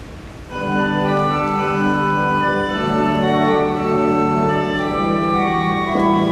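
Pipe organ starting to play about half a second in, holding full sustained chords that move slowly from one to the next.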